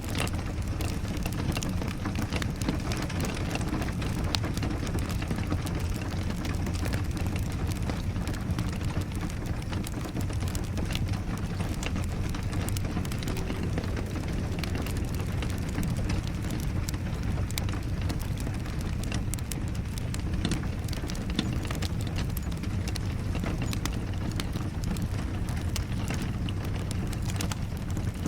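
Wood fire crackling, with many small sharp pops, over steady rain and a low rumble.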